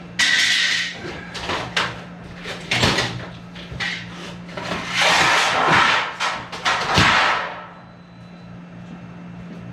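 Clattering knocks and scraping as objects are handled and moved about, busiest near the start and again in the middle, stopping about three quarters of the way through. A steady low hum runs underneath.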